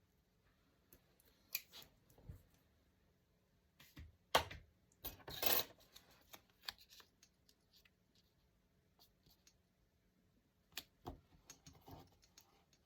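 Hands working with paper and craft materials on a desk: scattered light taps and clicks, a sharp click about four seconds in followed by a brief rustle, and a few more taps near the end.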